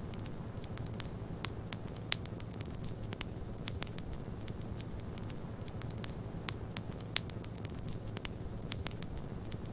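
Wood fire in a fireplace crackling, with irregular sharp pops over a steady low rumble. A few pops stand out, about two seconds in and again about seven seconds in.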